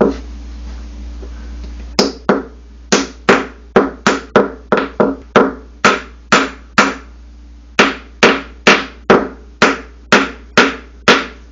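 A hammer tapping around the edge of a new sealed ball bearing, driving it into the bearing housing of a Samsung washer's tub. About twenty sharp ringing taps, roughly two a second in short runs, beginning about two seconds in.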